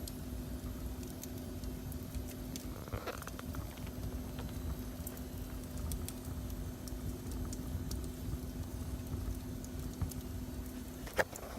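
Wood fire burning in a fireplace: a low steady rumble with scattered crackles and a couple of louder pops, one about three seconds in and one near the end. A faint steady hum runs underneath.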